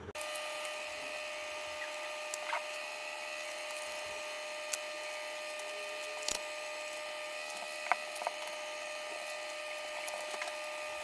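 Steady whirring hum of a small motor-driven workshop tool, with several sharp clicks and taps from handling parts at the bench.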